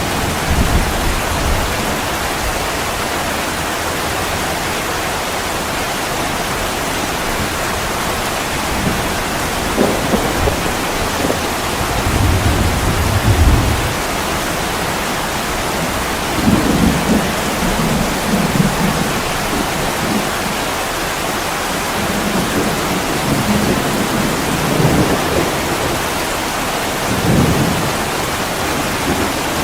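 Heavy rain pouring onto an attic window, a steady dense hiss, with low rumbles swelling up now and then about halfway through and again near the end.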